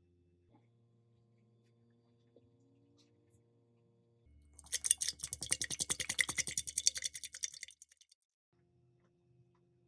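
Quiet background music with held tones. A little before halfway, some three seconds of rapid scrubbing strokes, about nine a second, much louder than the music.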